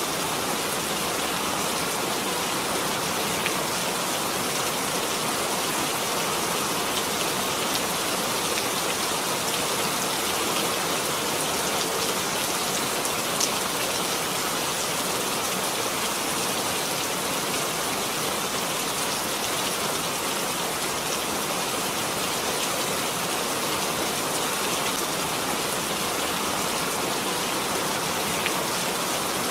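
Steady rain falling on surfaces: an even hiss with scattered drop ticks and a sharper single click about thirteen seconds in.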